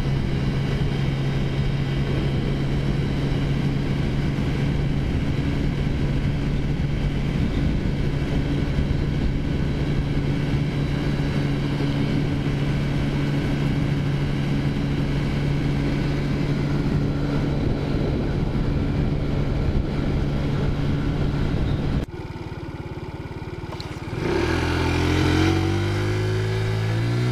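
Taotao scooter's small four-stroke engine running steadily at cruising speed. About 22 seconds in, the engine note drops suddenly as the throttle closes, then rises again in a rising whine as the scooter accelerates, and settles.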